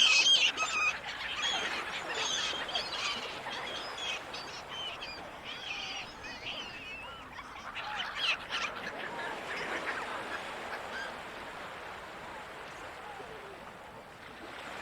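Seagulls calling again and again, loudest at the start, with more bursts of calls a few seconds in and near the middle, then thinning out toward the end. Under the calls runs a steady wash of ocean noise.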